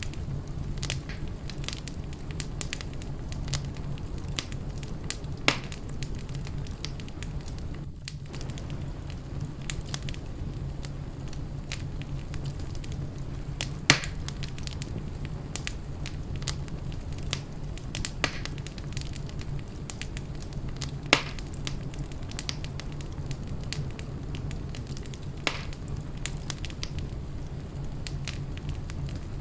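Fire in a fireplace burning steadily, with a low rumble and constant small crackles, and a handful of sharper pops scattered through.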